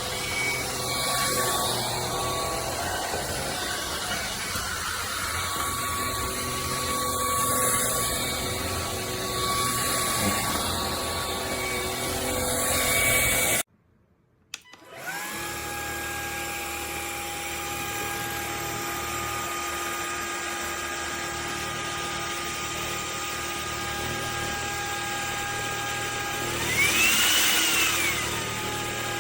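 Cordless stick vacuum's brushless motor running with a steady whine. It cuts out for about a second just past halfway, starts again with a cleaner steady pitch, and near the end its pitch sweeps up and back down.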